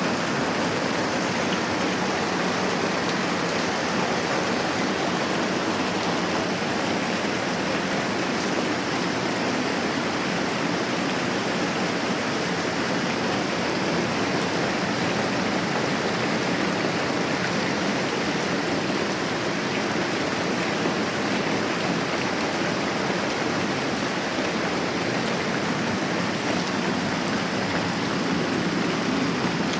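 Moderate rain falling in a steady, even hiss.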